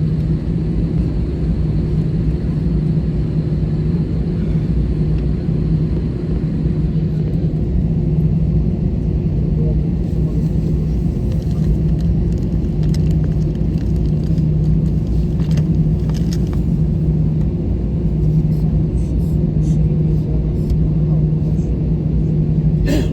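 Steady cabin drone inside an Airbus A320 on the ground just after landing, with a strong low hum that holds one pitch throughout. A few faint clicks come in the second half, and a sharper click comes near the end.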